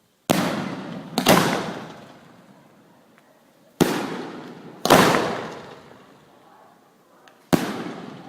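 Fireworks going off in a bonfire: five sharp bangs, coming in pairs about a second apart, each trailing off in a fading hiss over a second or two.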